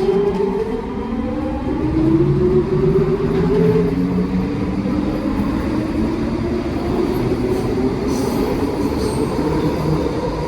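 Vancouver SkyTrain Mark I train accelerating. Its linear induction motor propulsion gives a whine that rises steadily in pitch as it gathers speed, over the rumble of the running train.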